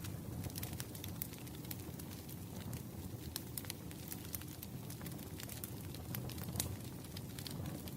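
Wood fire burning: scattered crackles and pops over a steady low rumble.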